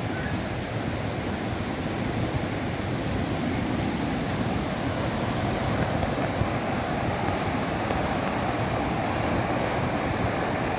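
Waterfall water rushing, a steady even noise.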